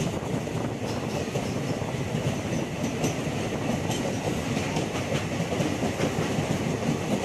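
Kanchan Kanya Express passenger train running through a rail tunnel, its wheels on the rails making a steady, loud rumble with a few clicks, heard from an open coach door inside the tunnel.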